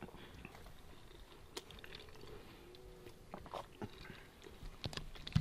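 Faint chewing of a fried bacon garnish, with scattered small clicks and crunches.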